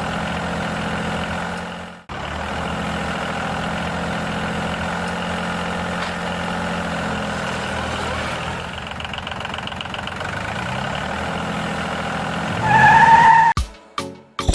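Tractor engine running steadily, cutting out for an instant about two seconds in and rising in pitch near the end, followed by a short, loud rising tone and a few sharp clicks.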